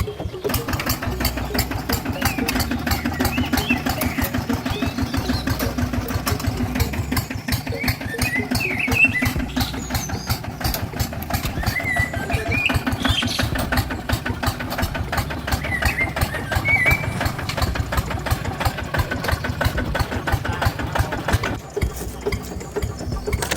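Small motor of a miniature RC tractor running steadily with a fast, even pulsing; the pulsing drops away near the end.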